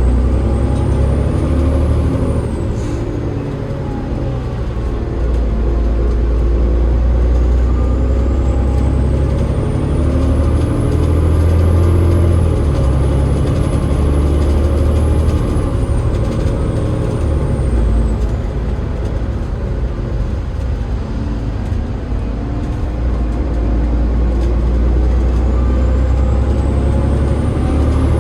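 Double-decker bus under way, its Cummins ISL8.9 diesel engine rumbling with the ZF EcoLife automatic gearbox driving. A thin high whine climbs in pitch, holds, drops suddenly about sixteen seconds in, then climbs again near the end. The uploader flags this as a weird sound from the ZF gearbox.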